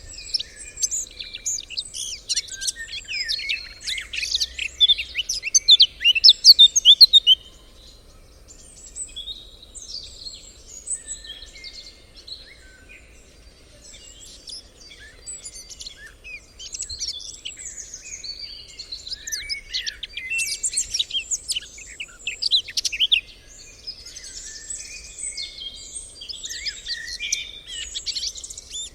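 Forest birds singing and calling together: a dense chorus of quick chirps and trills, loudest in the first seven seconds and again about twenty seconds in.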